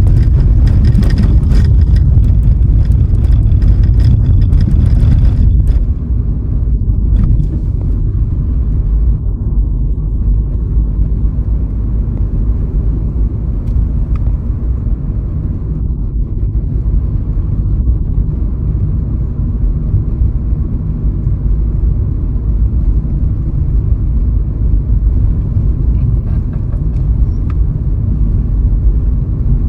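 A car driving along a road: a steady low rumble of road and wind noise. For about the first six seconds it is louder, with scattered clicks and rattles, then it settles to a quieter, even rumble.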